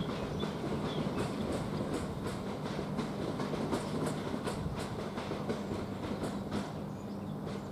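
Southeastern Class 395 high-speed electric train pulling out of the station: a steady electric hum with the regular clickety-clack of its wheels over rail joints, about two clicks a second, easing slightly as it draws away.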